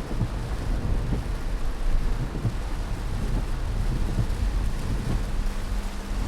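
Heavy rain and gusting wind of a hurricane, the gusts rumbling on the microphone without letup.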